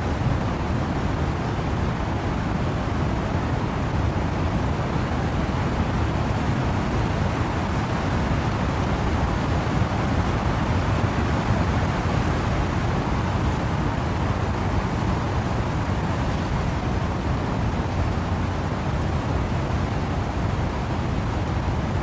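Steady wind and rain ambience: a dense, even rush weighted toward a low rumble, with no single drops, gusts or other events standing out.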